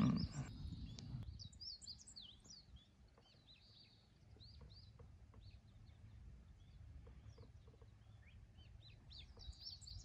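Small birds chirping, many short, high calls sweeping up and down, with a flurry of chirps near the end, over low, steady outdoor background noise.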